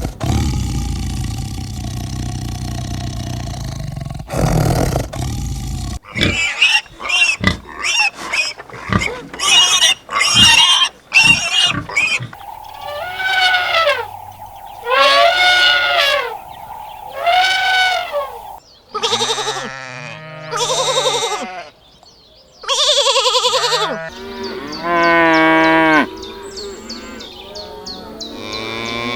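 A run of farm animal calls, one after another. A low rumbling sound opens it, then many short rapid calls, three drawn-out calls that rise and fall, and near the end several calls with a quickly wavering pitch.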